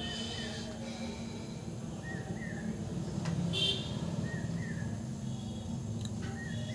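Small birds chirping: short calls in pairs every second or so, with one louder, higher call about three and a half seconds in, over a steady low hum.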